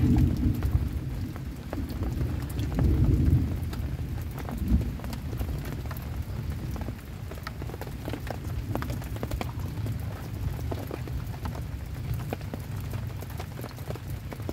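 Heavy rain falling on a camping shelter, with many scattered drop hits. Low rumbles of thunder swell near the start and again about three seconds in.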